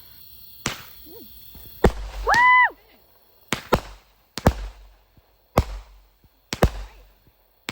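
A 20-shot consumer fireworks cake firing, its sharp shots going off about once a second, some in quick pairs, each followed by a short crackling tail. A brief high rising-and-falling whoop comes between the first shots.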